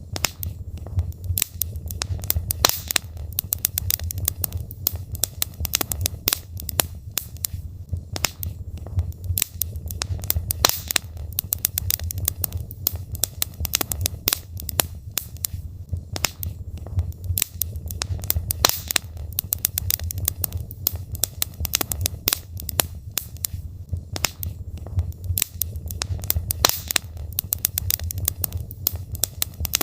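Logs burning in a fireplace, crackling and popping in dense, irregular snaps over a steady low rumble of the flames.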